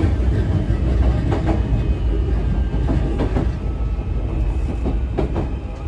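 Running sound inside a JR East E131-1000 series electric train: a steady low rumble with the clack of wheels over rail joints. A faint steady high whine joins about two seconds in.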